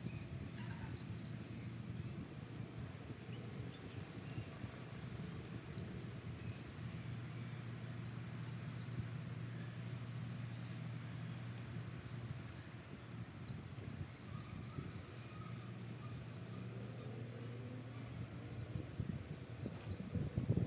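Footsteps and rustling through grass and leaves, over a steady low hum, with scattered faint high ticks.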